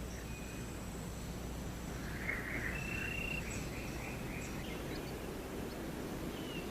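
Rainforest ambience: insects trilling steadily at a high pitch, with a few short calls, one held for under a second about three seconds in.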